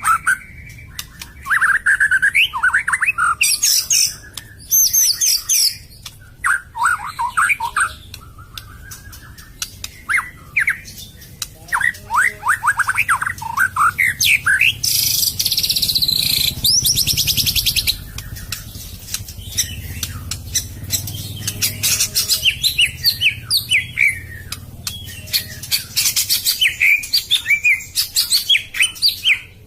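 White-rumped shama (murai batu) singing: a run of quick, varied whistled and chattering phrases, with a harsh, buzzy rattle from about fifteen to eighteen seconds in.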